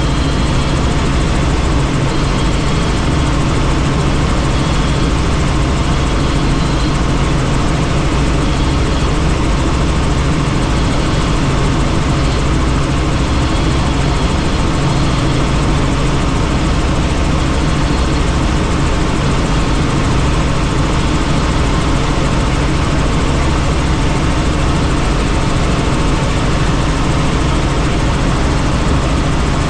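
Helicopter in flight heard from on board: a steady drone of engine and rotors with a rush of wind, unchanging throughout.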